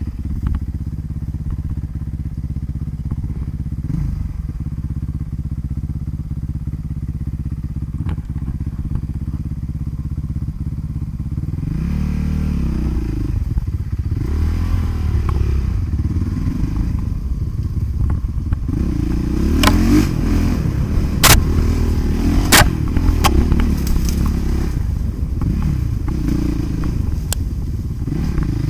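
Motocross bike engine running steadily, then revving up and down from about twelve seconds in. A few sharp knocks stand out over it about two-thirds of the way through.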